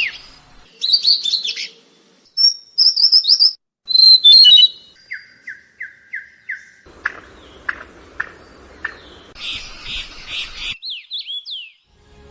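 A run of different wild birds calling, one recording after another with abrupt changes: quick high chirps and warbles, then a series of about six evenly spaced downslurred whistles, sharp single notes, a buzzy pulsing call, and finally a few sweeping whistles.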